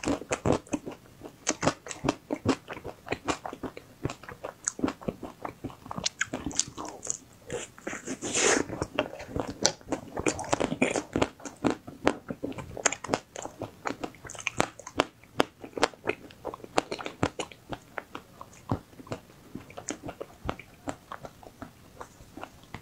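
Close-miked crunching and chewing of a hard-frozen ice cream bar with a crunchy coating: many sharp, irregular crunches as the bites are chewed down.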